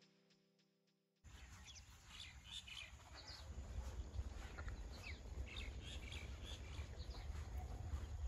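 Background music fading out, then from about a second in, birds chirping over a steady low outdoor rumble.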